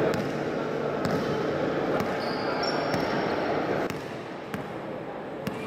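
A basketball bouncing on a court amid crowd chatter, which drops off about four seconds in. There is a brief high squeak near the middle.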